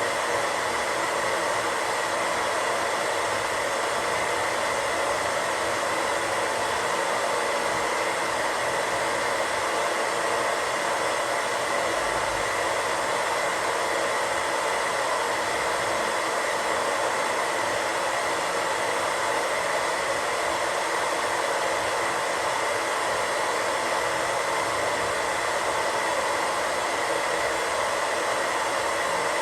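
Untuned radio static: a steady, unbroken hiss.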